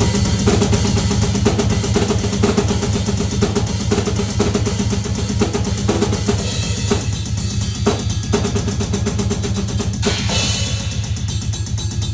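Drum kit played in a fast, busy rhythm of rapid strikes, over steady low sustained tones.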